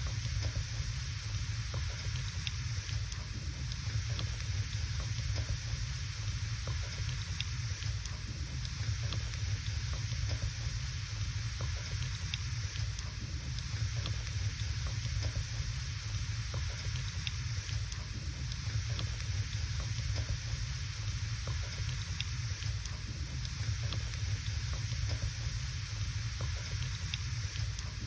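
Wood fire burning in a fireplace, crackling with many small, irregular pops over a steady low rumble and hiss.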